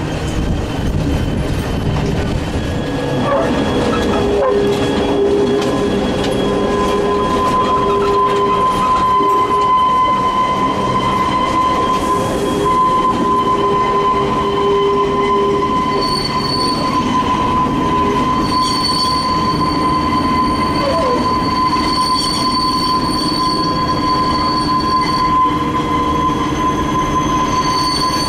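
Narrow-gauge Genova–Casella railway train running, its wheels squealing steadily against the rails over a continuous rumble. The squeal sets in a few seconds in and holds, and a second, higher squeal joins after the halfway point.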